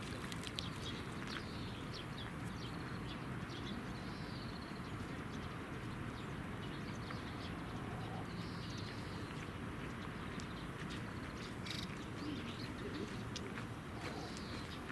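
Wild birds giving scattered short chirps and whistles over a steady background rumble.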